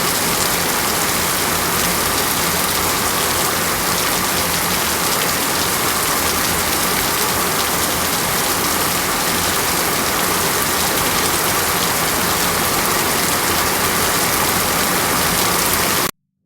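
Steady, heavy rainfall, an even wash of rain noise with no thunder claps, cutting off suddenly just before the end.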